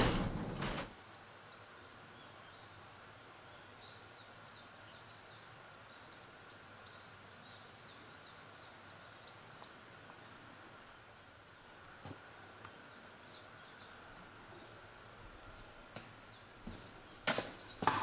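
Small songbird singing in runs of short, high, quickly repeated chirps, coming in bursts over a faint steady background hum. A loud running noise cuts off about a second in, and a few loud knocks come near the end.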